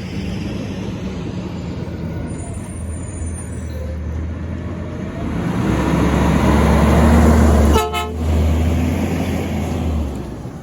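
Garbage truck's diesel engine running as the truck drives past, growing louder for a few seconds and then falling away near the end. Partway through there is one quick tap of the truck's horn.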